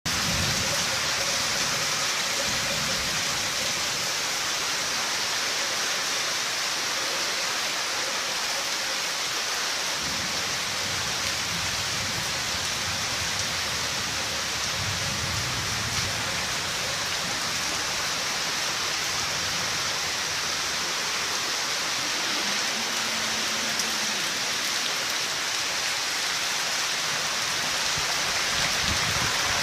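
Steady rain falling and splashing on surfaces, an even hiss, with a few faint low rumbles swelling briefly.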